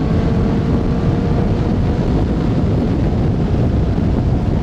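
Motorcycle cruising at speed, heavy wind rush on the helmet microphone over a steady engine hum whose pitch rises slightly.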